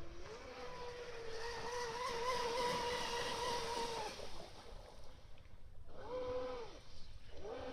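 Traxxas M41 RC speed boat's brushless electric motor whining at a steady high pitch under throttle as the boat runs across the water, with a hiss of spray. It cuts off about four seconds in, then comes back as a short burst that rises and falls, and starts rising again at the end.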